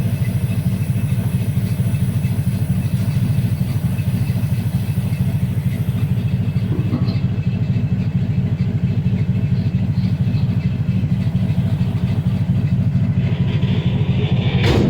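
1961 Cadillac's V8 idling steadily and loudly, one side exhausting through a straight pipe because a backfire blew out its muffler. There is a single clunk near the end.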